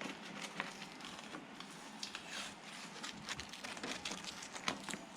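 Crinkling and crackling of a taped-on sheet being peeled away from the inside of a car door, with scattered small clicks and rustles.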